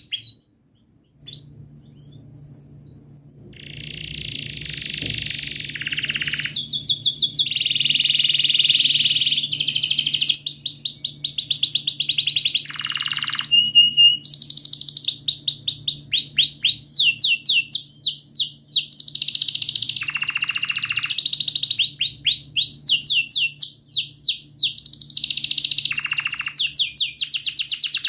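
Domestic canary singing a long, continuous song of rapid trilled phrases, each a quick run of repeated notes, with a few held buzzy notes between them. The song starts about three seconds in, quiet at first and then loud. A faint steady low hum runs underneath.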